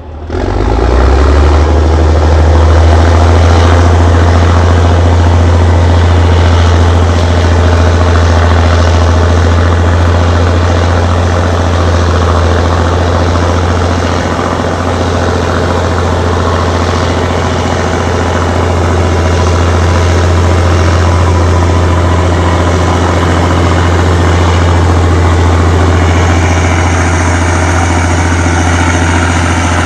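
Allis-Chalmers HD-21 crawler dozer's diesel engine running steadily under a heavy low drone, coming up to full loudness about a second in.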